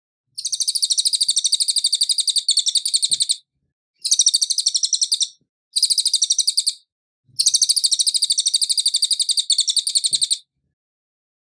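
Cililin songbird singing four bursts of fast, evenly repeated high, clear notes, the last and the first each about three seconds long, with short gaps between them.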